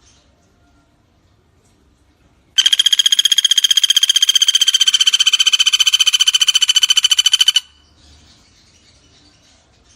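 Common flameback woodpecker (pelatuk bawang) giving one long, rapid, rattling trill of about five seconds, starting a few seconds in and cutting off abruptly. A faint frog and insect chorus sounds before and after it.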